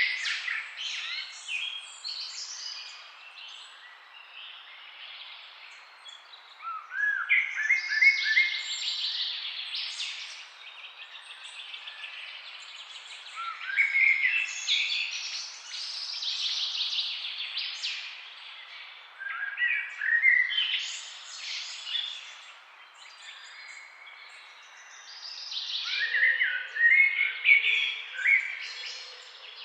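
Songbirds chirping and singing in trees, in recurring bursts of song about every six seconds, over a faint steady background hiss.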